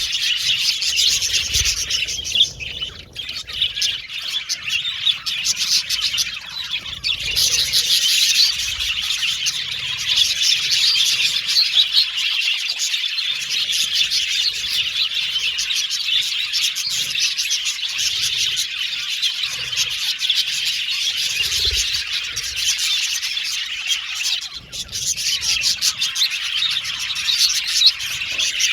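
A flock of budgerigars chirping and warbling together in a steady, busy chatter, with brief lulls about three seconds in and near the end.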